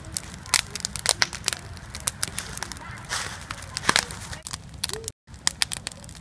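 Backyard wood campfire crackling, with sharp pops and snaps at irregular intervals as it burns strongly. The sound drops out for a moment about five seconds in.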